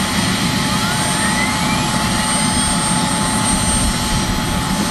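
Gas turbine engines of a four-turbine pulling tractor running steadily: a dense rushing noise with a high, steady whine on top. Early on one whine tone glides upward in pitch.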